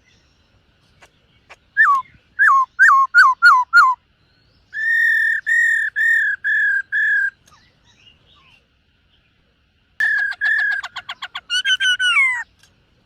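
Black-throated laughingthrush singing in three loud, clear whistled phrases: a run of six down-slurred notes, then six level whistles, then near the end a fast trill running into two long falling notes.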